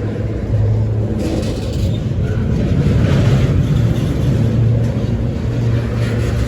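Freight train passing close by: a continuous heavy rumble with a steady low drone and no breaks.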